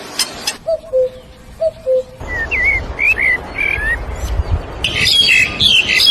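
Birds calling in a quick run of different sounds: a few sharp ticks, then low two-note calls, then wavering chirps, and from about five seconds in, rapid high chirping.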